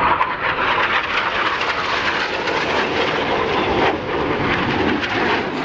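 Jet noise from the Red Arrows' BAE Hawk jets flying in formation: a loud, steady rushing roar of their turbofan engines.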